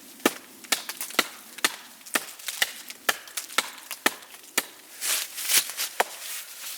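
Wood being chopped with quick, light, regular strokes, about two a second, each a sharp knock. There is a short rustling noise about five seconds in.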